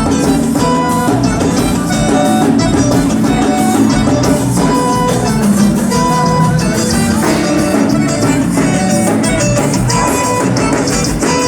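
A band playing music, with guitar and a drum kit keeping a steady beat.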